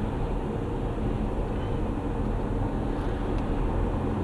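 Steady road and engine noise heard from inside a moving vehicle's cabin, a low, even drone.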